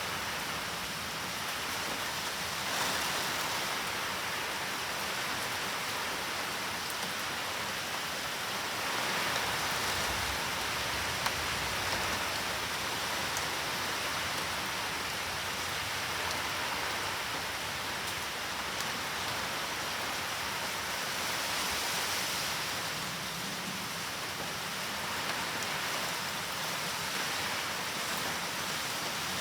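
Typhoon rain falling steadily as an even hiss of rain, swelling a little in strength a few times.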